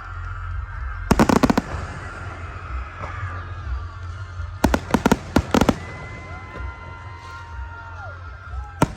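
Fireworks exploding in quick clusters of sharp bangs: a rapid string about a second in, another string of bangs around five seconds in, and a single bang near the end.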